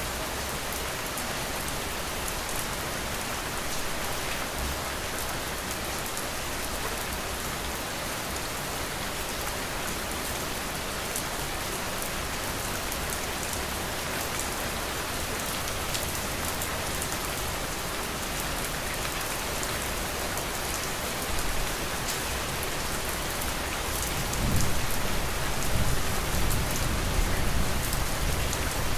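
Steady rain falling in a continuous even patter. Near the end a low rumble comes in and the sound grows louder.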